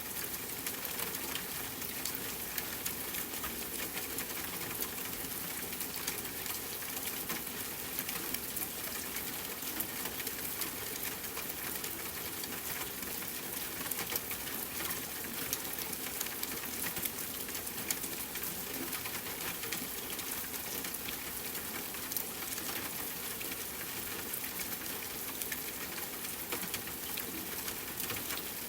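Steady rainfall mixed with a crackling wood fire, with small sharp pops scattered throughout.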